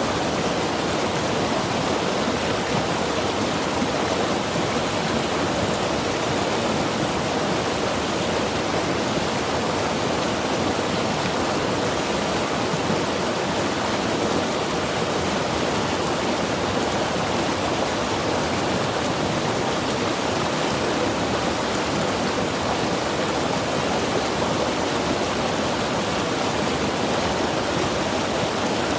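Mountain river rushing over rocks: a steady, even wash of flowing water with no breaks.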